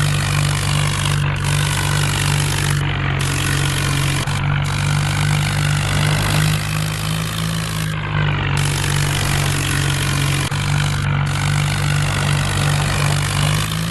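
Vehicle engine running at a steady speed.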